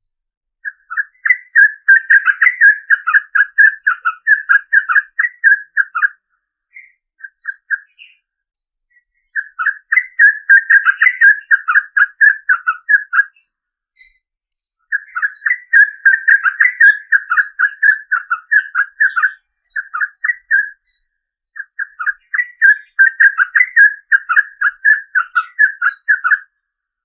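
Yellow-vented bulbul (trucukan) singing long, rapid runs of bubbling notes in four bouts of several seconds each, with short pauses between and fainter high chirps over them.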